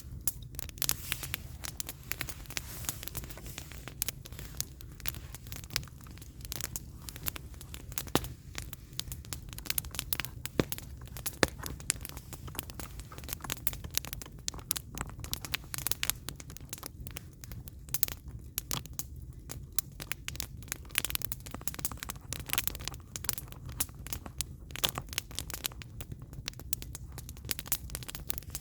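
Firewood burning in an open campfire, crackling with many irregular snaps and pops over a steady low rumble.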